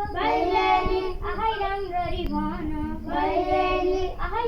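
Children singing together in high voices, holding and bending long notes.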